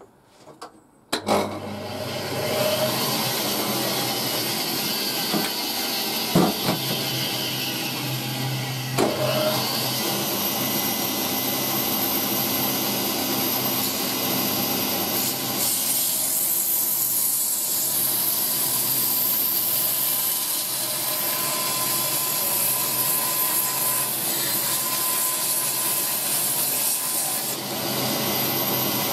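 Wood lathe starting up about a second in, its motor humming steadily while a turning tool cuts into a spinning wooden blank with a continuous rough cutting noise. There are a couple of sharp knocks a few seconds in.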